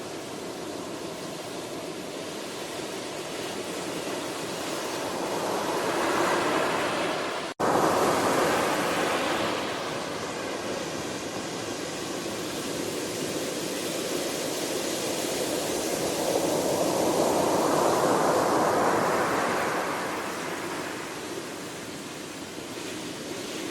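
Ocean waves rolling in and washing over the shore in slow surges, two swells building and fading about ten seconds apart. The sound cuts out for a split second about seven and a half seconds in.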